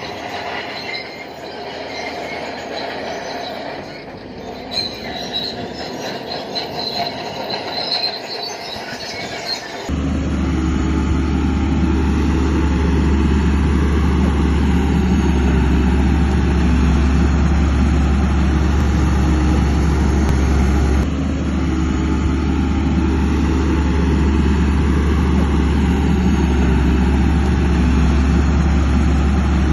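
Crawler bulldozer at work: high metal squealing from its steel tracks over the engine rumble for about the first ten seconds, then an abrupt change to a steady, loud, low diesel engine drone.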